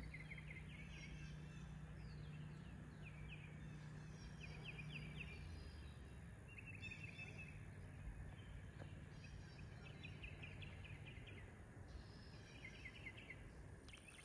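Wild songbirds singing: quick runs of repeated chirping notes, recurring every second or two, faint over a low steady background hum.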